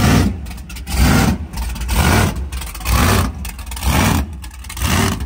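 Car engine revved in short blips, about one a second, each rev rising and falling back.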